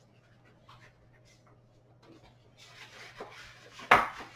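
Paper and packaging rustling as manuals and leaflets are handled, faint at first and getting louder about two and a half seconds in, with one sharp knock near the end.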